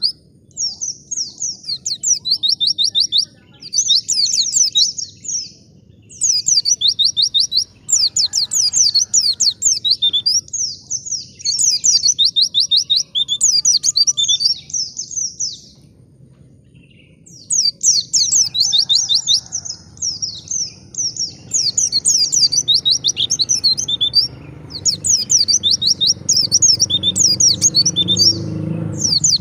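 White-eye (pleci) singing: rapid, high-pitched twittering phrases in bursts, broken by short pauses. Under it a low background rumble swells near the end.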